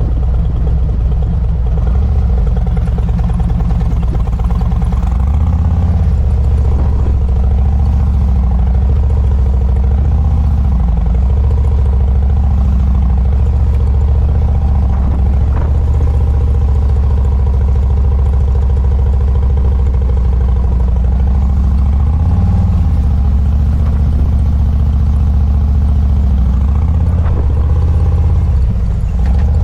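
Motorcycle engine at low speed during a slow-speed cone course. Its pitch rises and falls repeatedly as the throttle is worked through the turns.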